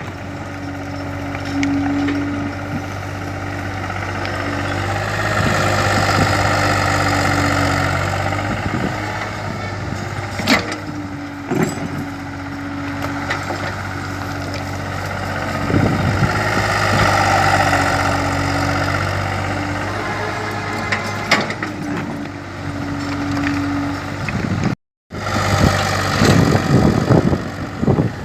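Kobelco excavator's engine running steadily, with two long swells of a higher strained sound as the hydraulics work the arm, and a few sharp knocks.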